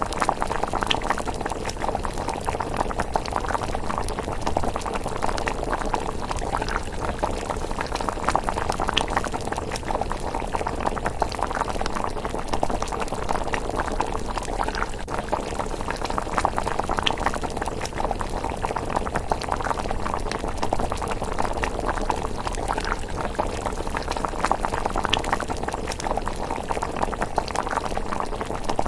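A pot of thick rice porridge bubbling steadily at a simmer, with scattered small pops.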